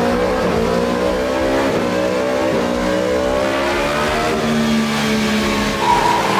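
2018 Yamaha R1's crossplane inline-four with a Spark full-system exhaust, revving under load on a dyno during a power run, its pitch climbing gradually. A higher tone joins near the end.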